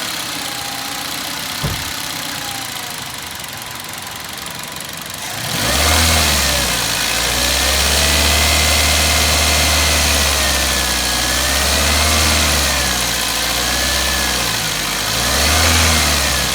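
Toyota Corolla Altis petrol engine idling, then revved from about five seconds in, its speed rising and falling several times. The engine is being checked for a noise problem that the workshop traces to its timing adjuster.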